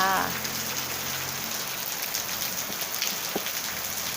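Steady rain falling, with scattered individual drop ticks.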